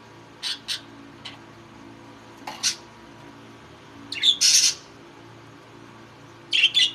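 Pet budgerigars giving short, high chirps and squawks at irregular intervals: a quick pair about half a second in, a harsher, louder squawk about four seconds in, and a flurry of chirps near the end.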